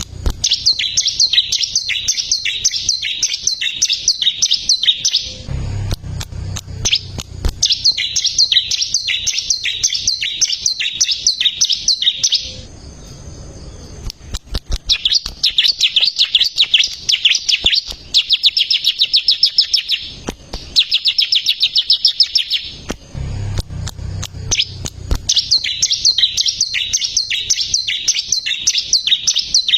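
Ciblek (bar-winged prinia) singing: runs of rapid, evenly repeated high chirps, each lasting a few seconds, separated by short pauses, with a faster trill in the middle.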